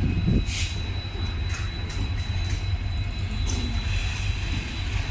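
Passenger train of ICF coaches rolling past: a steady low rumble broken by a handful of sharp, uneven clanks from the wheels.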